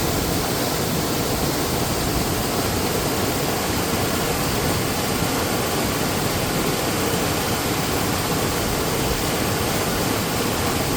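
Waterfall: water falling and rushing in a loud, steady, unbroken noise.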